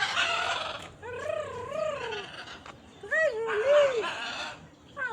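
An animal's wavering cries, rising and falling in pitch, heard twice, with another beginning at the very end.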